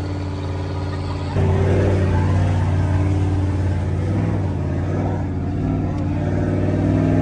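A truck engine running with a steady drone. About a second and a half in it jumps sharply louder, and from then on the engine revs, its pitch rising and falling.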